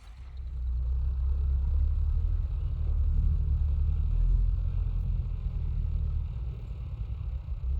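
Tractor engine running, a low steady rumble that swells up about half a second in and then holds.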